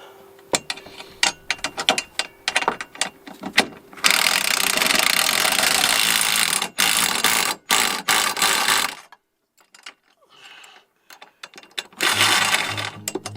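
Ratchet wrench clicking in quick strokes as the step's mounting bolts are tightened. It is followed by about five seconds of loud, steady rushing noise.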